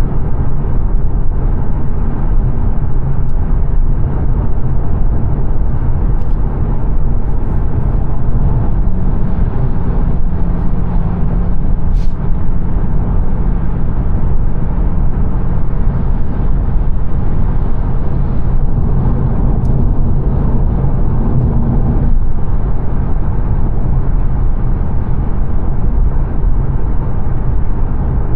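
Steady road and tyre noise with a low engine hum inside the cabin of a 2022 Mazda 3 saloon cruising along a fast dual carriageway.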